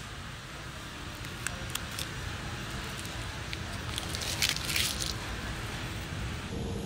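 A person chewing a bite of pizza close to the phone's microphone: wet, crackly mouth noises with a few clicks, loudest about four to five seconds in, over a steady low store rumble.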